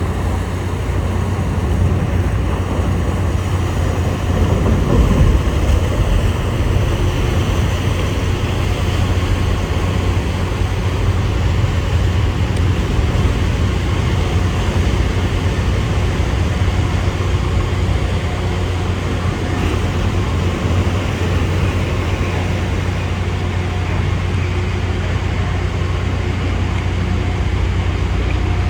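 A ferry's engines running under way, a steady low drone mixed with the rush of wind and water.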